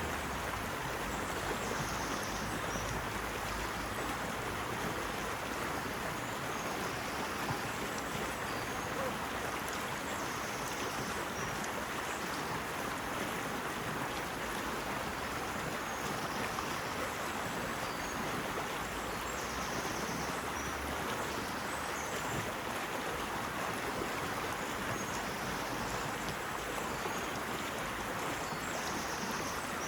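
Running water, a steady unbroken rush with no changes in level.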